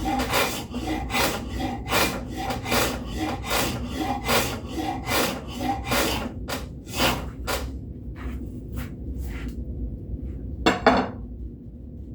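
Large wood rasp filing a wooden axe handle in steady strokes, about two to three a second, thinning out and getting fainter after about seven seconds, with one last louder stroke near eleven seconds.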